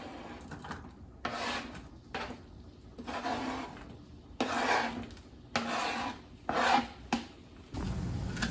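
A kitchen utensil scraping in about seven short strokes, with wood and pan sounds, like food being stirred or worked in a pan or on a board. A low steady hum comes in near the end.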